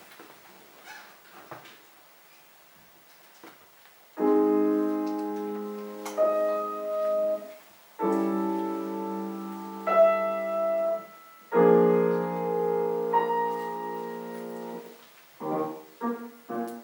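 Piano playing a song's introduction: after about four quiet seconds, three long held chords with a melody note sounding above each, then a few quicker notes near the end.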